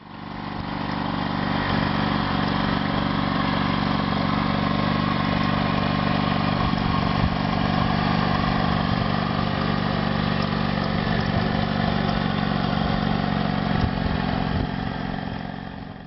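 Small engine of a homemade mini tractor running steadily at an even speed, with no revving.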